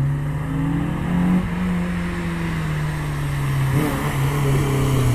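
Honda S2000's four-cylinder engine running hard as the car slides on wet tarmac in a drift attempt. Its note climbs about a second in, then slowly falls away.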